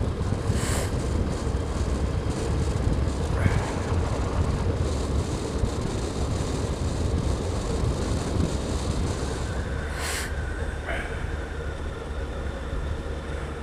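Motorcycle engine running steadily at cruising speed, with wind rush. There are two short bursts of hiss, one about a second in and one after about ten seconds.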